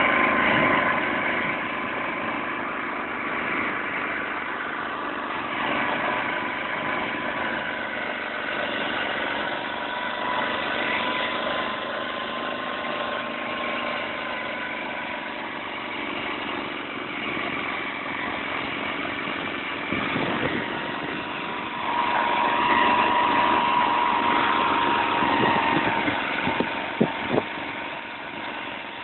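Motor Sich walk-behind tiller with a chain reduction gearbox, its engine running steadily. It gets louder about two-thirds of the way in, and a few sharp knocks come near the end.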